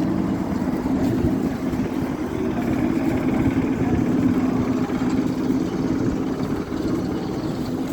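ET2M electric multiple unit running, heard from on board: a steady rumble of the train in motion with a low, even hum.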